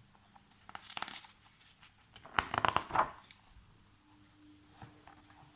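Paper rustling and crinkling with a few sharp clicks, as the page of a picture book is handled and turned, loudest about two and a half seconds in.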